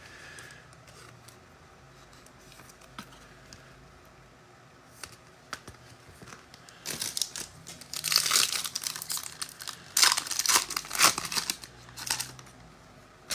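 Foil wrapper of a football trading card pack being torn open and crinkled: a few seconds of quiet, then a run of crackling rustles from about seven seconds in.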